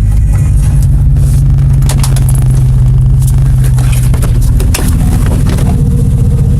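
GMC 3/4-ton truck's 6.0-litre gas V8 running through a new Flowmaster Super 44 muffler, a steady deep exhaust note while driving. The pitch drops about five seconds in.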